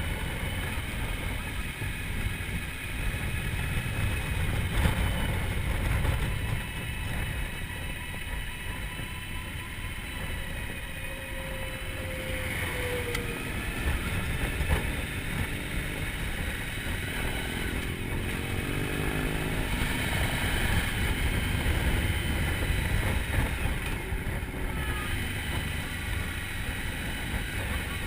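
Motorcycle running at road speed, a steady engine drone under a heavy low wind rumble.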